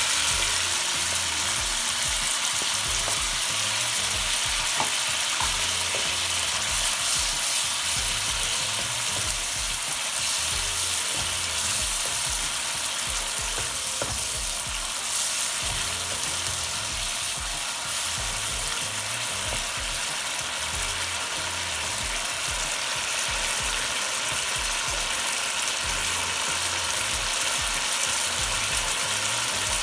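Spice masala with freshly added cashew paste sizzling in a pan, a steady frying hiss.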